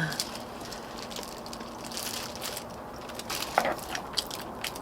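Eating sounds: a mouthful of food being chewed and crunched close to the microphone, with scattered short clicks and taps, thickest near the end.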